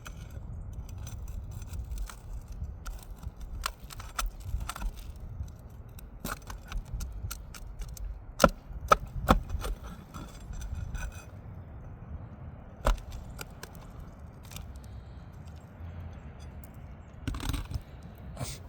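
Metal crowbar with a P-hook clinking and scraping against roofing nails and asphalt shingles as the nails are pried out. There are scattered small clicks, three sharp clinks in quick succession about eight and a half to nine and a half seconds in, and another about thirteen seconds in.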